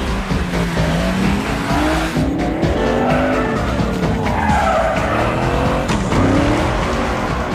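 Film car-chase sound mix: car engines revving hard, their pitch climbing and dropping repeatedly, with tyres squealing through turns, over the film's score.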